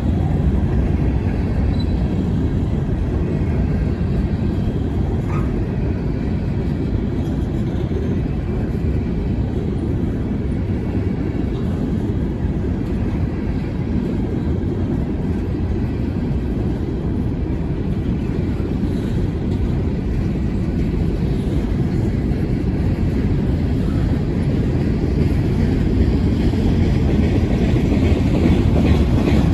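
Wheeling & Lake Erie freight train rolling past, a steady low rumble of wheels on rail that grows louder near the end.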